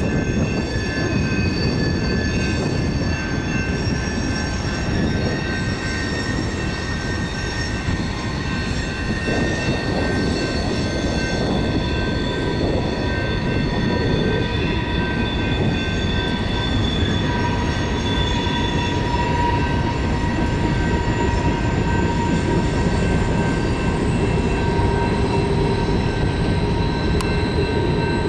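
Train cars rolling past on the rails with a continuous rumble and steady, high-pitched wheel squeal in several tones at once.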